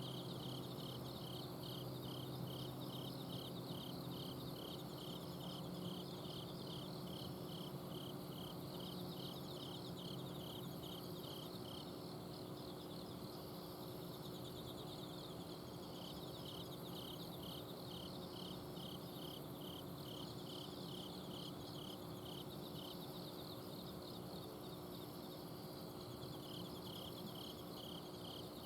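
Autumn insects calling at night: one cricket gives an even, high chirp about two to three times a second, falling silent twice for a few seconds, over fainter, higher trilling from others. Under them runs the steady low hum of an air conditioner's outdoor unit.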